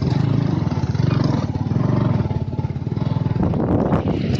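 Motorcycle engine running at low, steady speed, with a few short knocks near the end.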